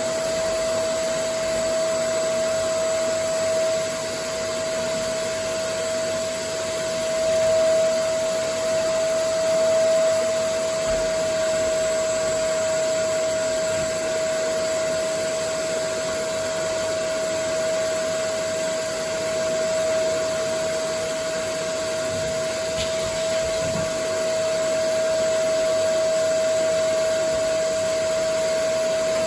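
Vacuum cleaner running steadily: a constant whine over the rush of air, with slight swells in loudness now and then.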